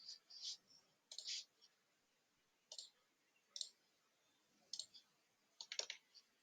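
Scattered computer mouse clicks, single and in quick pairs, about a second apart and irregular, over near silence.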